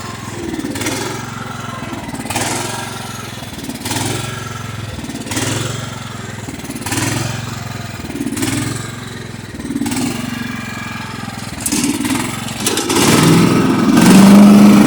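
Kohler Command 16.5 hp single-cylinder engine on a lawn tractor running with a regular surge, swelling and dropping about every one and a half seconds. It pulses like this even though its fixed-jet carburetor is clean. Near the end it picks up and runs louder and steadier.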